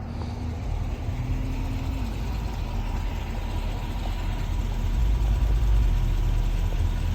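Diesel locomotive engine idling with the train stopped, a steady low rumble that grows louder about five seconds in.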